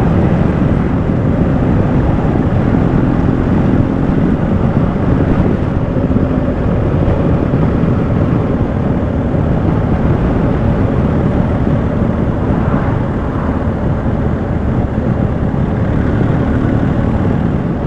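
BMW motorcycle with sidecar running steadily at road speed, its engine hum mixed with wind and road rush over the microphone.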